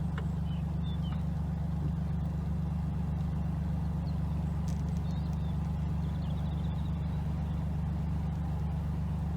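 Narrowboat's diesel engine idling steadily with an even low drone.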